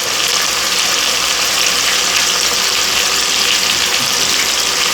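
Chicken pieces sizzling steadily as they brown in butter and oil in a hot pan, with a few faint clicks.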